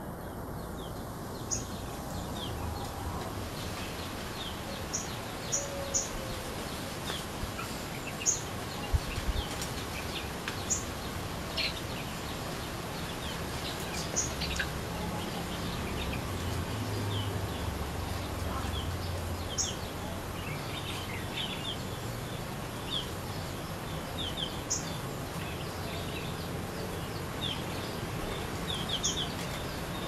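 Small birds giving short, sharp chirps every second or two, more often in the second half, over steady outdoor background noise with a low rumble.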